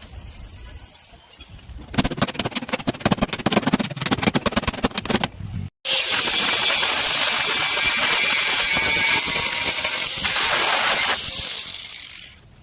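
Car body-repair tool noise: a low hum, then a few seconds of rapid rattling knocks, then after a sudden break a steady hiss that fades away near the end.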